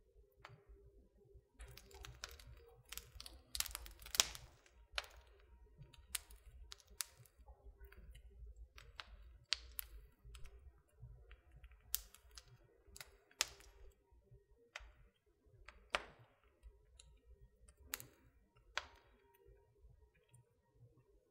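Wood fire crackling in a fireplace: irregular sharp snaps and pops over a faint low rumble of the flames. The pops come thick and fast a few seconds in, then turn sparser, with single louder snaps every second or two.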